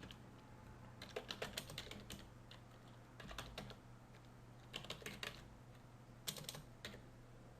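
Faint typing on a computer keyboard, keys clicking in several short runs with pauses between them, as a shell command is typed into a terminal.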